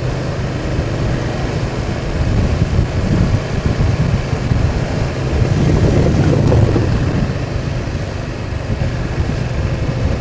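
BMW R1200 boxer-twin motorcycle engine running under way, with wind rushing over the helmet microphone; the rush swells louder through the middle and eases off near the end.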